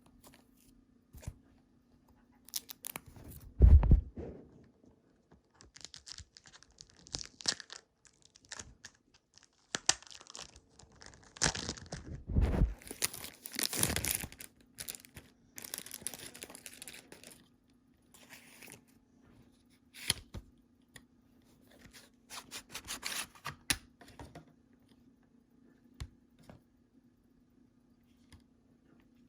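Plastic wrapping being torn and crinkled off a CD case in irregular bursts of rustling and tearing, with two heavier handling thumps about 4 and 12 seconds in.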